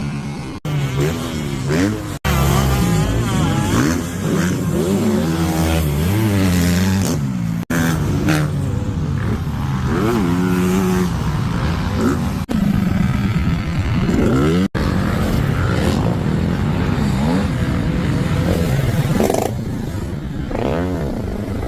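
Dirt bike engines revving up and down, the pitch repeatedly climbing and falling. The sound breaks off abruptly several times, as if short clips were cut together.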